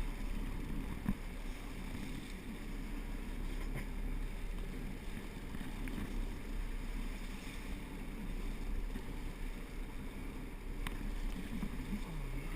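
Steady low rumble of a fishing boat's engine running, with a couple of faint clicks.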